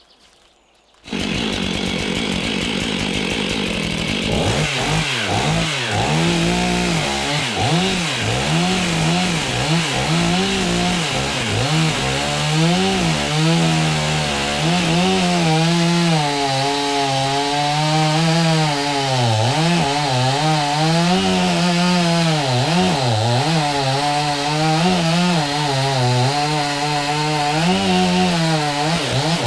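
Two-stroke chainsaw running at high revs, coming in abruptly about a second in; its engine pitch repeatedly dips and recovers as the chain bites into wood under load.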